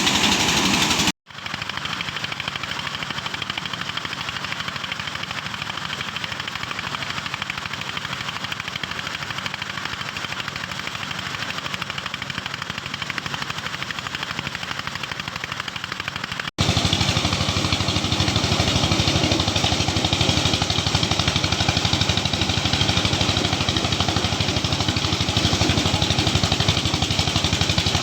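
Engine-driven corn sheller running steadily, with a dense, rapid rattle as cobs are threshed. The sound drops out for an instant about a second in and again past halfway, coming back louder.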